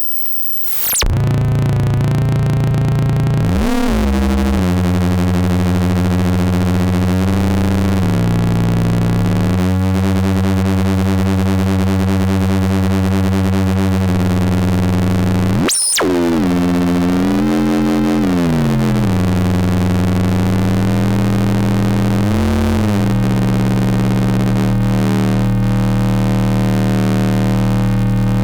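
PARATEK Cosmic Noise eurorack module, a Jupiter Storm-style bank of square-wave oscillators, sounding a dense, buzzing drone of several stacked tones. The pitches step and bend every few seconds. Near the start the sound briefly drops out, and about halfway through there is a quick high swoop up and back down.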